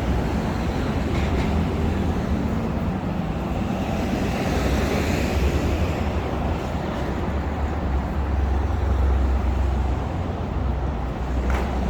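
Steady city road traffic: a continuous low rumble of passing cars, with one vehicle swelling past about halfway through.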